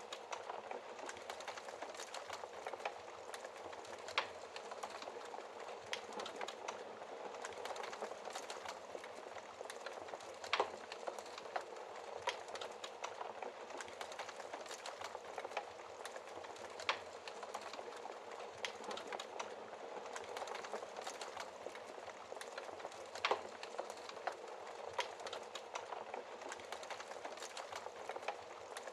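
Wood fire burning in a fireplace: a steady hiss with constant small crackles and an occasional louder pop, about three sharper pops standing out over the stretch.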